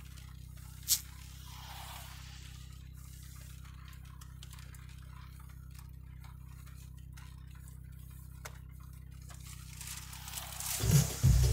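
Steady low drone of a car heard from inside the cabin, with faint scattered ticks like raindrops on the body and one sharp click about a second in. Near the end, louder music starts.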